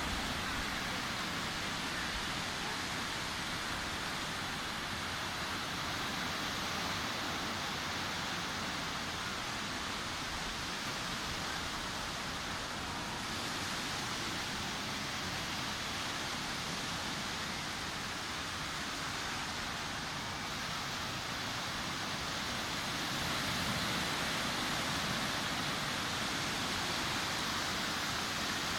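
Sea surf washing onto a beach: a steady hiss of breaking waves that swells a little a few seconds from the end.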